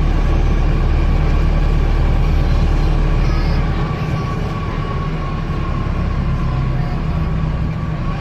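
Wright StreetDeck double-decker bus's Mercedes OM934 four-cylinder diesel running under way, a heavy low drone that eases off about four seconds in, with a thin steady whine above it.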